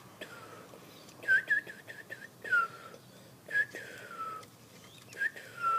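A black bird giving whistled calls as it is fed: four bursts of quick short notes, each ending in a longer falling whistle. These are typical of begging for food.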